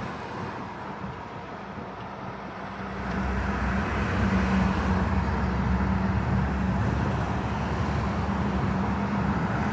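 Road traffic: a motor vehicle running with a steady low rumble and an engine hum, growing louder about three seconds in and then holding steady.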